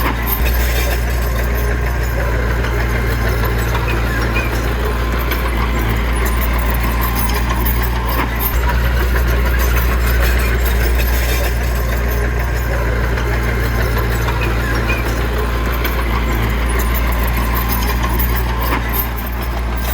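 Heavy-equipment diesel engine running steadily, a deep, even drone with no clear revving.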